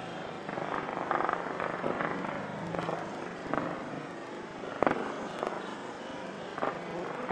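Distant fireworks popping and banging over a steady background din, with the sharpest bang about five seconds in.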